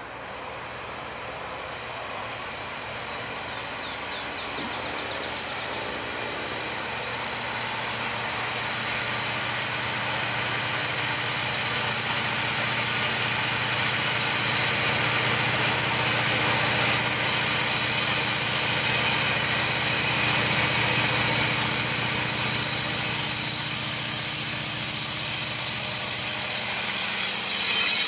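Norfolk Southern freight train's diesel locomotives approaching and passing close by, the steady engine drone growing louder throughout as the lead units near and reach the camera.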